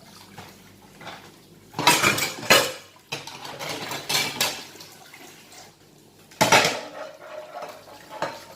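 Dishes clattering and clinking in a sink as a small child washes them by hand, in three clusters of knocks with quieter handling between.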